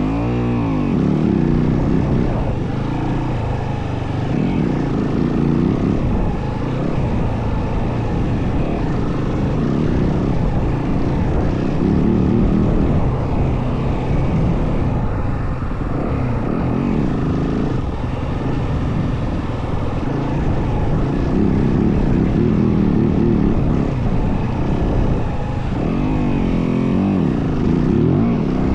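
Yamaha WR450F dirt bike's single-cylinder four-stroke engine running under way, with the revs rising and falling several times as the rider works the throttle.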